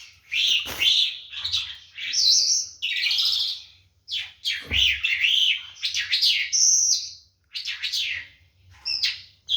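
A lark singing a varied, chattering song: a run of short, high chirping and trilling phrases with brief pauses between them. A brief low thump comes about halfway through.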